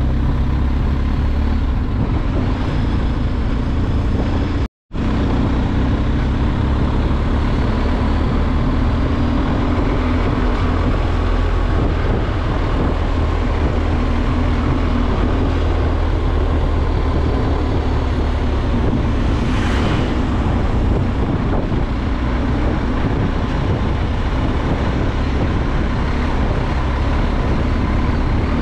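Motorcycle engine running steadily while riding, from the BMW R 1250 GS Adventure's boxer twin, with steady road noise. The sound drops out for a split second about five seconds in.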